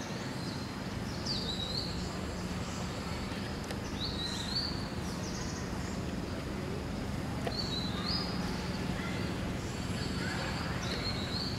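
A bird calling repeatedly: a short high call that sweeps up sharply and then holds, four times a few seconds apart, over steady outdoor background noise.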